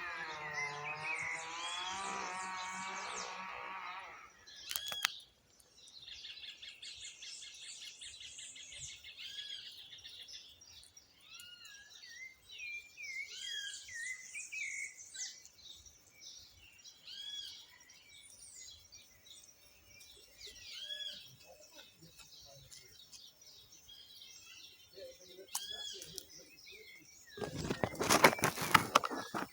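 A sabiá, a Brazilian thrush, singing repeated phrases of short whistled notes, with other small birds chirping. A cow lows for the first few seconds, and near the end a loud rustling crackle covers the song.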